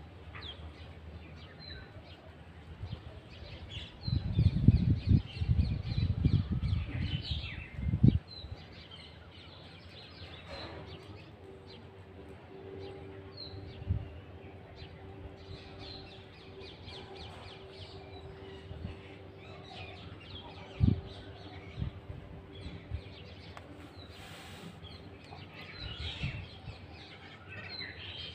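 Small birds chirping and tweeting over and over, in short high calls. About four seconds in, a few seconds of loud low rumbling cover them. Later a faint steady hum runs for about ten seconds, with a couple of soft thumps.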